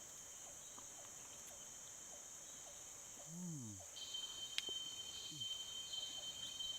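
Faint, steady high-pitched chorus of crickets and other insects, with a second steady insect trill joining about four seconds in. A short low call falling in pitch sounds once a little after halfway.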